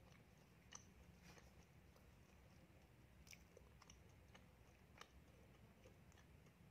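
Faint, close-miked chewing of a mouthful of donut: scattered small wet mouth clicks over a low steady hum.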